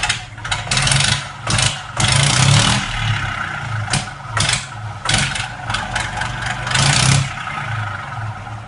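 Fendt 720 tractor's six-cylinder diesel engine running with no exhaust fitted, blipped again and again in short bursts over a steady low run, loud and raw.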